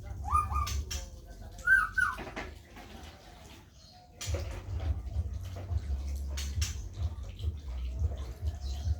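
Two short rising squeaky animal calls in the first two seconds, then from about halfway water splashing with a low rumble.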